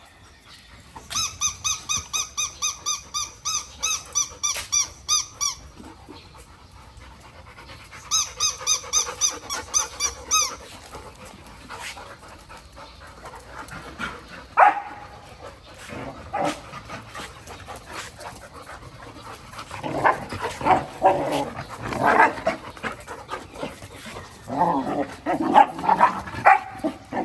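Golden retriever at play. It starts with two runs of rapid, even high-pitched squeaks, about four a second. From about halfway on come scattered short barks and growls, heaviest near the end.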